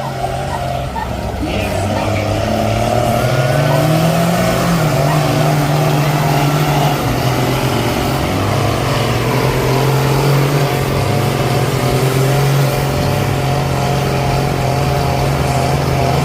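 Truck engine running hard under load during a truck pull. It grows louder over the first few seconds, rises in pitch about four seconds in, then holds a steady high-revving note.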